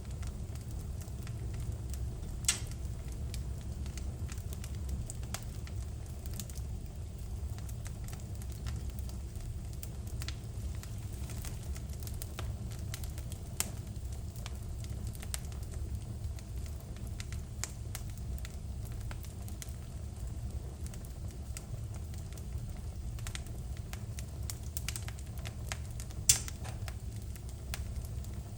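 Fire burning in a fireplace, crackling steadily with many small snaps over a low steady rumble. Two louder pops stand out, one a couple of seconds in and one near the end.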